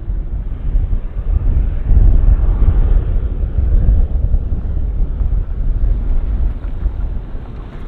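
Jet airliner's engines rumbling loudly as it passes close by, loudest about two to four seconds in and easing a little after, with wind buffeting the microphone.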